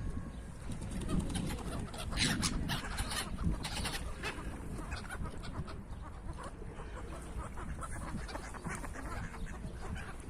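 Park ducks and other birds calling, many short quacks and squawks overlapping, busiest a couple of seconds in.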